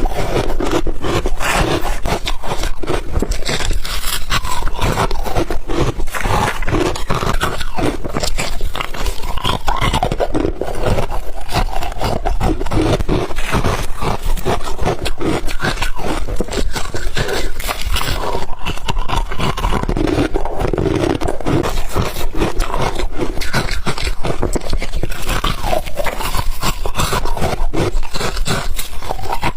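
Close-miked chewing of crunchy frozen ice, a dense, continuous run of crackling crunches.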